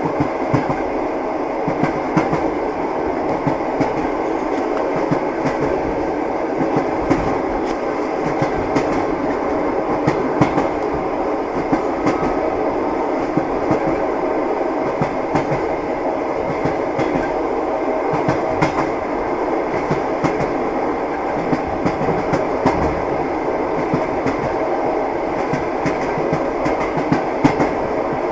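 Passenger train running at speed, heard from inside the carriage: a steady rumble with the clickety-clack of the wheels knocking over rail joints.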